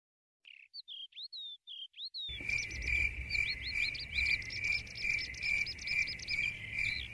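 Birds chirping: a few separate short chirps, then from about two seconds in a dense run of quick chirps over a steady, high pulsing tone and a low rumble.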